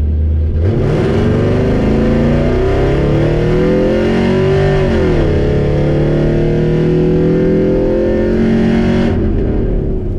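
Supercharged 6.0 L Chevy LS V8 with Dynomax mufflers revving: the pitch climbs, drops sharply about halfway, then climbs again before cutting off about a second before the end.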